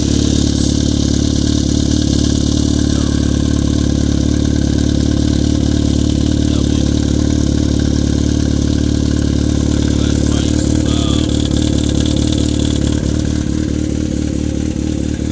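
A 2012 Yamaha FZ6R's 600 cc inline-four engine idling steadily and loud, a little quieter near the end.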